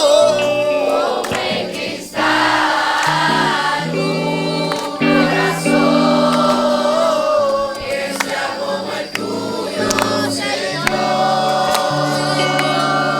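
Christian worship music: a choir singing held, sustained notes.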